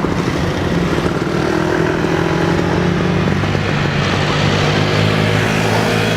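Aircraft engine running steadily, with a low droning tone that shifts in pitch about four seconds in.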